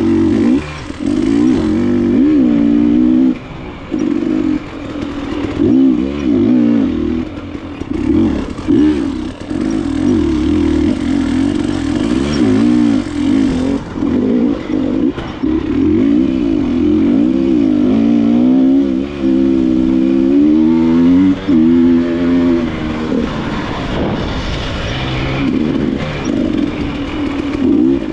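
KTM enduro motorcycle engine revving up and down as the throttle is worked on a trail, the pitch rising and falling constantly, with brief drops every few seconds as the throttle is shut.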